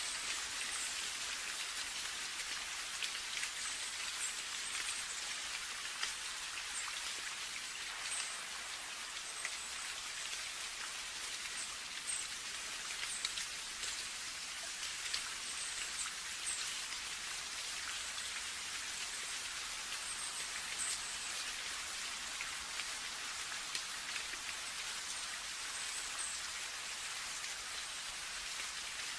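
Steady rain with many separate drops pattering on a surface.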